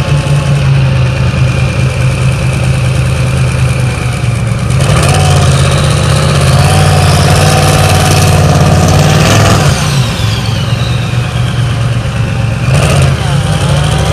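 Blower-equipped diesel pulling truck's engine running loud under throttle, swelling to a louder, higher rev about five seconds in that falls away just before ten seconds with a falling whine, then another short rev near the end.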